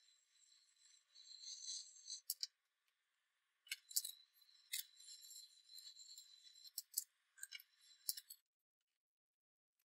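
Light scraping or rubbing with sharp clicks and taps, as from hand work on small hard parts, in two spells with a pause of about a second between them; it stops a second and a half before the end.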